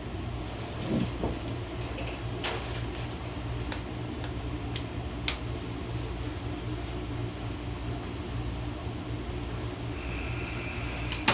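A steady low mechanical hum, with a few light clicks and taps over it.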